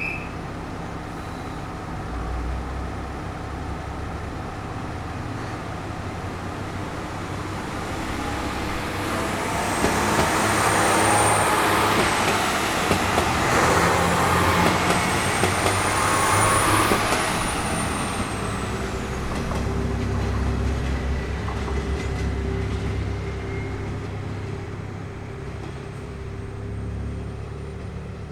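JR Shikoku 1500 series three-car diesel railcar train pulling away: its diesel engines run under power, swelling to a peak about ten to eighteen seconds in with a high whine over the top, then fading.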